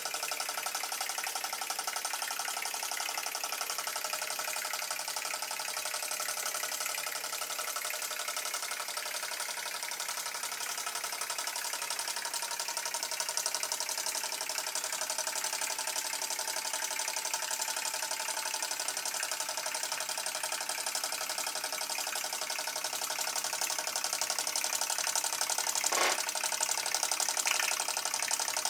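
TTB V2 stationary model steam engine running steadily on live steam: a fast, even beat of exhaust chuffs over a hiss of steam. A single sharp click or knock about 26 seconds in.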